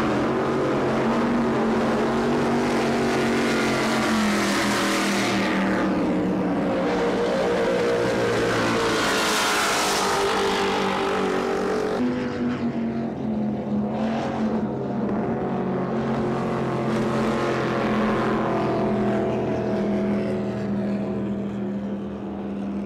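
Offshore race boats' big inboard engines running hard at speed. There are two loud pass-bys, about five and about ten seconds in, where a rushing hiss swells and fades over the steady engine drone. About halfway through the sound changes abruptly to a steadier engine note.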